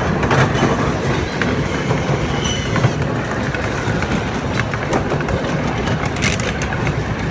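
Miniature ride-on train running along its track: a steady rumble of wheels on rail from the open passenger car, with a click from the track now and then.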